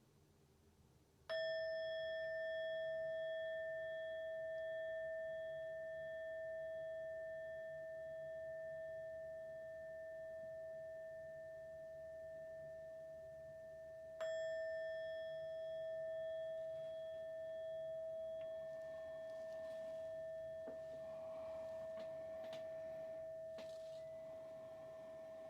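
A meditation bell struck twice, about a second in and again some thirteen seconds later. Each strike rings on in one clear, slowly fading tone with fainter higher overtones, marking the close of the silent sitting period. Faint rustling can be heard under the second ring.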